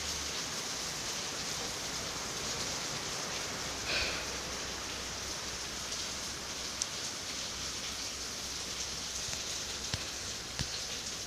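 Rain falling steadily, a dense even hiss, with a few sharp drop-like taps and one brief louder sound about four seconds in.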